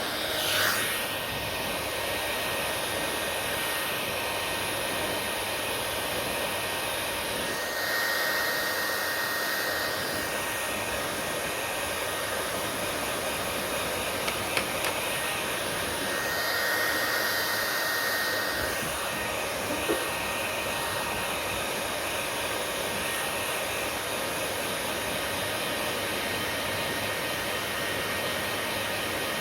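Hair dryer running with a steady rush of air. The sound grows louder and higher for a couple of seconds about eight seconds in and again around seventeen seconds, and a few faint ticks come in between.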